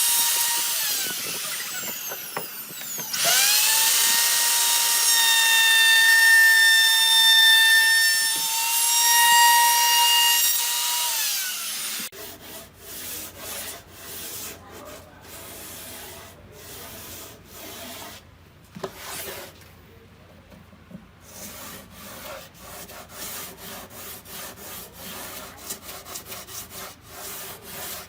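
A small power tool's motor whines at one high pitch, dips and spins back up about three seconds in, then winds down after about eleven seconds. A long run of irregular rubbing and scraping strokes follows.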